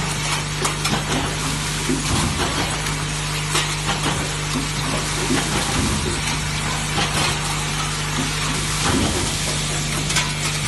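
Semi-automatic spot welding machine running: a steady hum under a constant hiss, with scattered sharp clicks.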